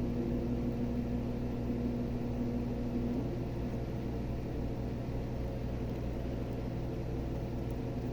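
A steady low hum, with a higher steady tone over it that stops about three seconds in.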